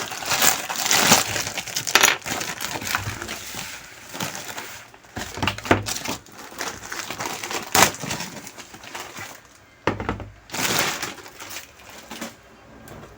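A courier package being opened and unwrapped by hand: irregular crinkling, rustling and tearing of packaging, with several sharp clicks and knocks.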